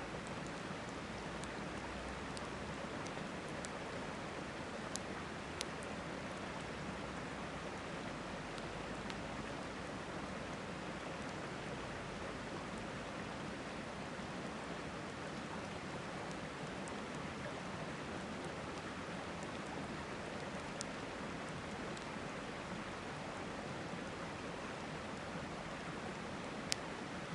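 A river running steadily, with a few sharp pops from a crackling campfire, the loudest near the end.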